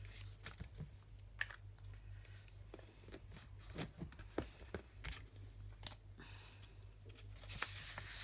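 Faint scattered clicks and light rustles of paper card and craft supplies being handled on a desk, over a steady low hum.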